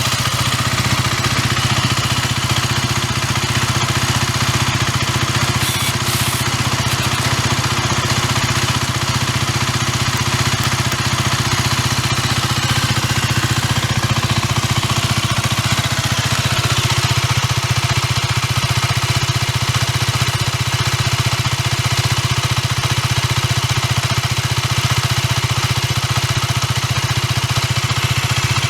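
Aprilia RS4 125's single-cylinder four-stroke engine idling steadily through its original exhaust.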